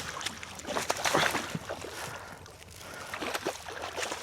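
Water splashing and sloshing around a kayak, with irregular knocks and clicks scattered throughout.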